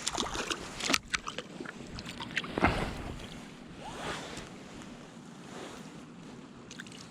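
Steady rush of river water with wind buffeting the microphone. A quick run of small clicks and knocks comes in the first second, and two louder swells come a few seconds in.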